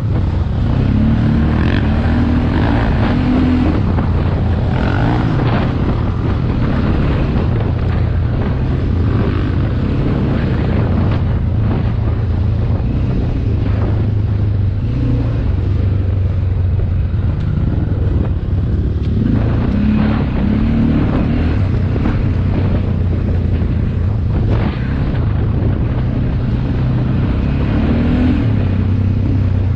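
Motocross dirt bike engine running hard, its revs rising and falling repeatedly, with a steady low rumble of wind on the microphone.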